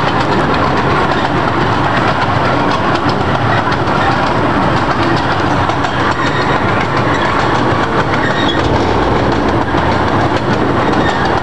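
Zoo train running along its track, heard from an open passenger car: a steady rumble and rattle of the cars with light, scattered clicks of the wheels on the rails.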